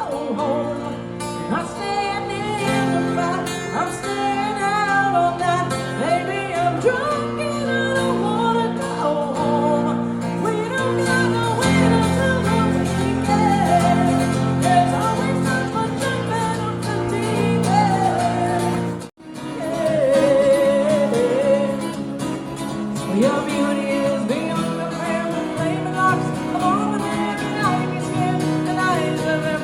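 Live acoustic duo music: guitar over held low notes, with a gliding melodic lead line above. The sound cuts out for a moment about 19 seconds in, then resumes.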